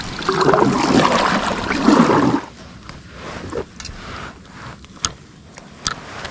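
Water splashing and gurgling close by for about two and a half seconds, then a quieter stretch with a few sharp clicks.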